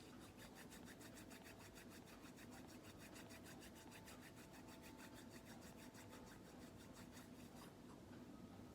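Faint, quick, even rubbing or rasping strokes, about six a second. They start just after the beginning and stop near the end.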